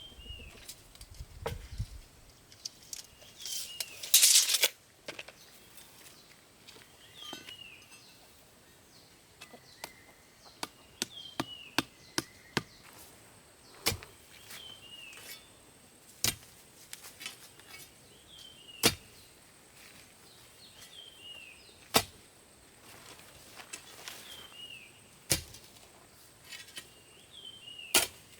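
Sharp single knocks of a tool striking bamboo, one every two to three seconds, with a brief rasping burst about four seconds in. A bird's short downward chirp repeats between the knocks.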